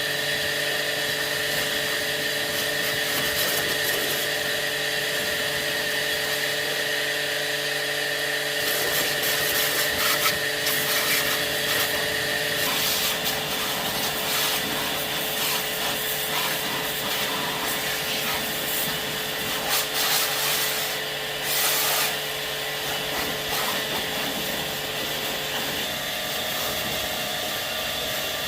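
An electric power tool runs at steady speed, its motor hum stepping in pitch a couple of times. From about nine seconds in, the work being pressed against it adds an irregular scraping.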